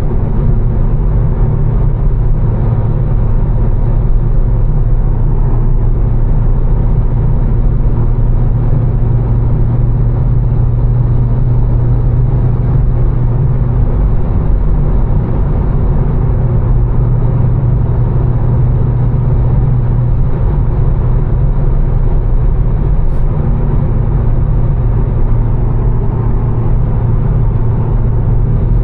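Tuned twin-turbo inline-six of a BMW M4, breathing through catless downpipes and a single-midpipe exhaust, cruising with a steady low drone over road noise.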